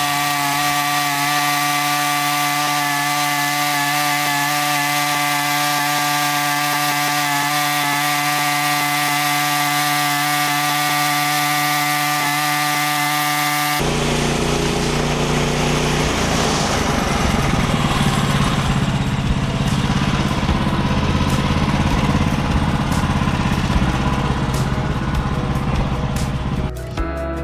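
Woodland Mills HM130 Max portable bandsaw sawmill running: its engine holds a steady, even hum for the first half, then about fourteen seconds in the sound turns abruptly rougher and noisier, the band blade cutting through an ash log.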